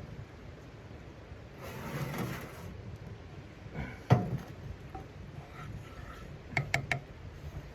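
Handling noises: a brief rustle, one sharp knock, then a quick run of three or four clicks near the end, over a low steady rumble.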